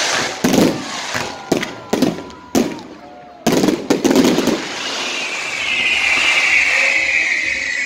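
Fireworks going off: a run of sharp bangs over the first four seconds, then a long whistle falling slowly in pitch from about five seconds in.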